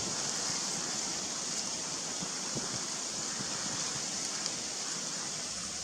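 Steady outdoor ambience: an even rushing hiss with a high, steady whine above it.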